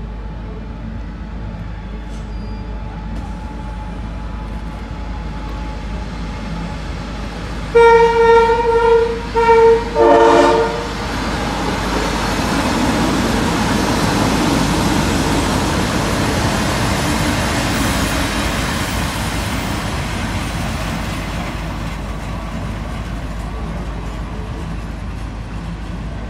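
A train horn sounds three short blasts about eight seconds in, the last with a different chord. Then a CPH rail motor set runs past on the near track, its rumble and wheel noise swelling and fading away.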